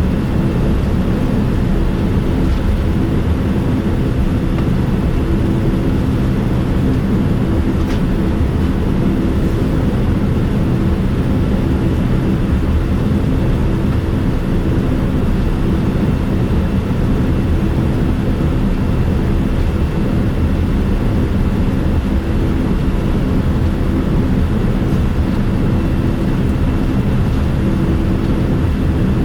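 Steady cabin noise inside a Boeing 787-9 airliner: a constant low rumble with a steady hum and a faint high whine, and no sudden events.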